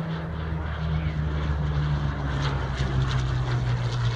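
An aircraft engine droning as the plane flies past, its low note slowly dropping in pitch.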